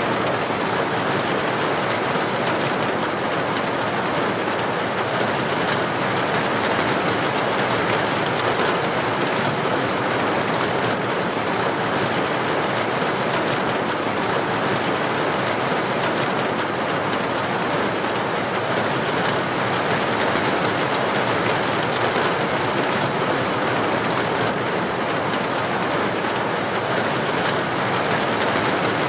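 Heavy rain falling steadily on a street, an even, unbroken hiss with no thunderclap.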